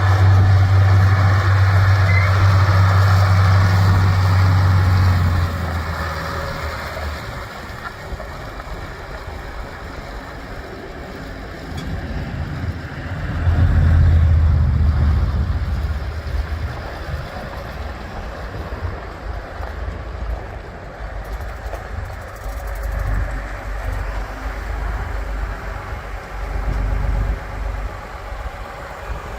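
John Deere 4020 tractor engine running, with a strong low hum that is loud for about the first five seconds, drops away, and swells again about fourteen seconds in before settling to a lower rumble.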